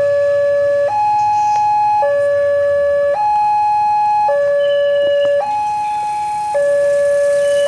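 Railway level-crossing warning alarm sounding, an electronic two-tone signal that alternates between a lower and a higher tone about once a second, the sign that the crossing is closing for an approaching train.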